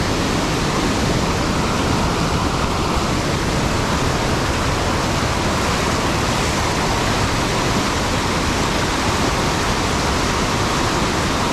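Steady, loud rush of fast-flowing water swollen by a heavy downpour.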